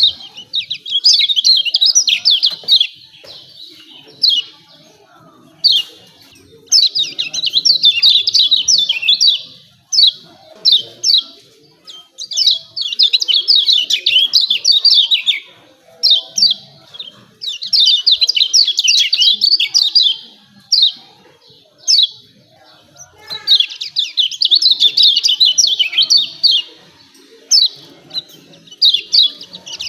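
Lemon-bellied white-eye (kecial kuning) giving its 'ciak ciak' calls. These come as bursts of rapid, high chirping about two seconds long every few seconds, with single short chirps in between.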